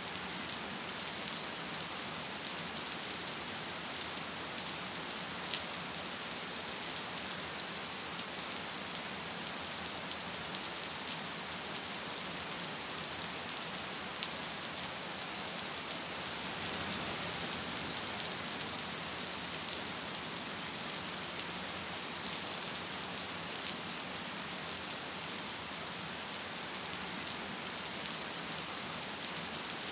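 Gentle rain falling steadily: an even hiss with many small drop ticks.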